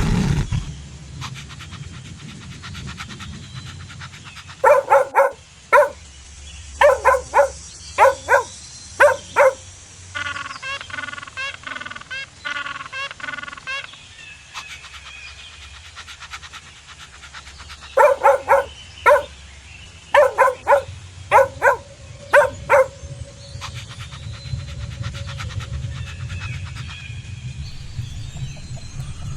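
Dog barking in two bouts of short, sharp barks, about eight or nine in each, the first starting some five seconds in and the second near eighteen seconds. A quicker run of fainter high chirps comes between the bouts.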